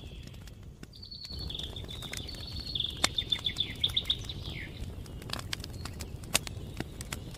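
A songbird singing a phrase that breaks into a quick trill, over a campfire crackling with sharp pops and a low steady rumble from the fire.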